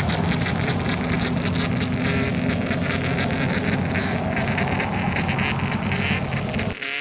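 Customised kaido-racer car engine running loud with a rapid, raspy exhaust pulse. Near the end it cuts off abruptly and a quieter engine follows, its pitch rising and falling as it revs.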